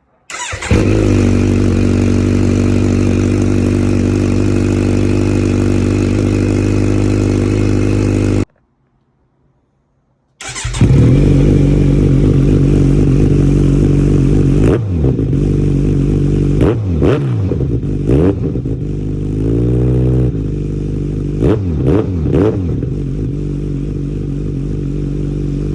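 Kawasaki Z900 inline-four running through an SC-Project SC1-R silencer with its dB killer removed: it idles steadily, cuts out for about two seconds near the middle, then idles again and is revved in several quick blips and one longer rev in the second half.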